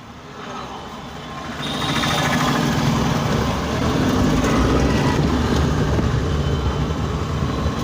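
Maruti Alto 800 driving on a road: engine and road noise build over the first couple of seconds, then hold steady.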